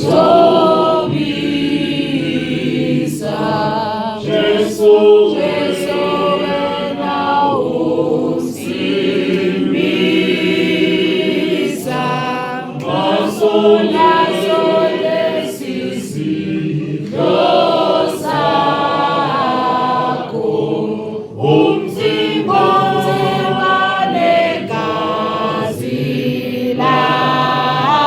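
A choir singing in several voices, in phrases a few seconds long with short breaks between them.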